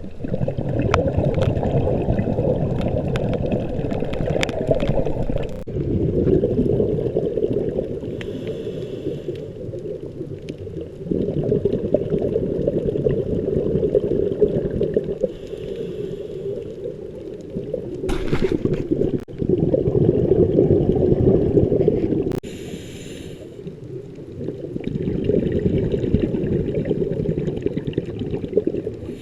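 Scuba regulator breathing heard underwater: long, low bubbling exhalations of several seconds each, broken about every six seconds by a short hissing inhalation.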